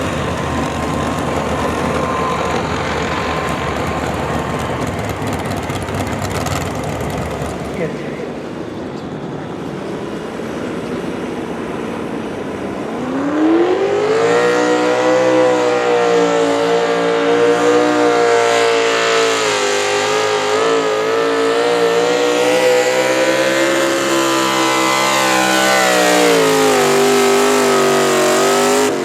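A pulling vehicle's engine runs rough and low, then revs up sharply about 13 seconds in. It holds at high revs with a wavering pitch under load through the pull, and the revs drop away near the end.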